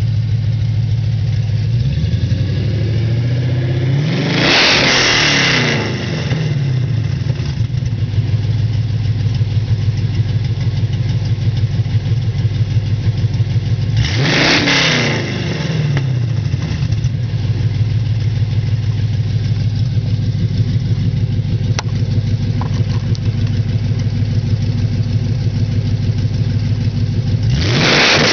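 1994 Impala SS's LT1 V8 idling through budget headers and a Spintech exhaust with pre-axle dumps, blipped three times. Each rev climbs quickly and falls back to idle within about two seconds, roughly ten seconds apart, the last near the end.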